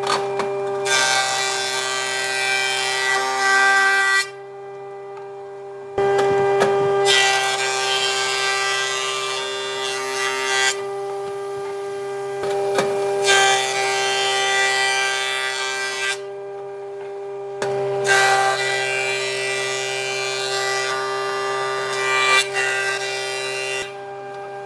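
An electric power tool's motor running with a steady hum. Rough grinding passages of wood being worked, each a few seconds long, come and go about four times as the tool is pressed against the wood and lifted off.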